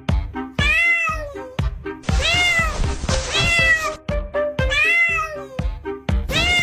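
A cat meowing about five times, each meow a long call that rises and falls in pitch, over background music with a rhythmic beat.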